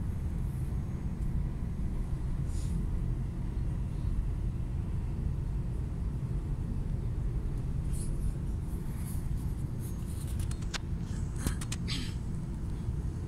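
Commuter train running, a steady low rumble heard inside the carriage. Near the end come a few short clicks and rustles as a handheld meter is handled and turned over.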